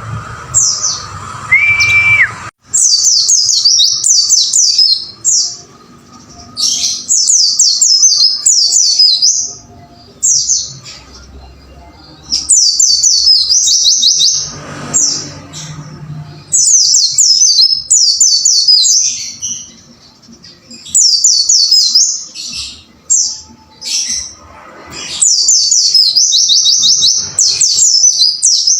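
White-eye (pleci) singing its fast, high 'wucit wucit' song in rapid chirping phrases of one to three seconds with short pauses between them. A low background rumble cuts off suddenly about two and a half seconds in.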